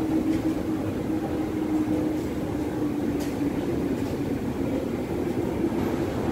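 Steady rumble of an electric train in the station, not yet at this platform, with a sustained low hum that sags slightly in pitch.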